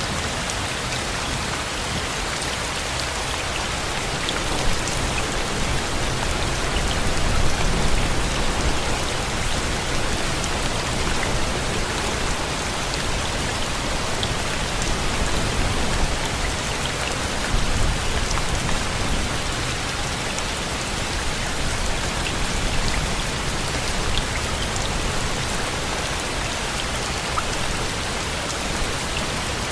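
Steady rain falling, with a low rumble swelling about seven seconds in.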